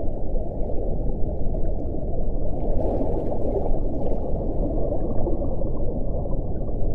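Wind blowing as a steady, dense low rumble without whistling tones.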